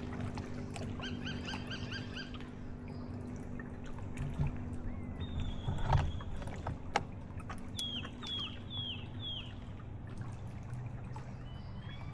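Water lapping and trickling around a kayak, with birds calling: a quick run of about eight repeated notes about a second in, and four short down-slurred notes past the middle. A few sharp knocks come around the middle, the loudest about six seconds in.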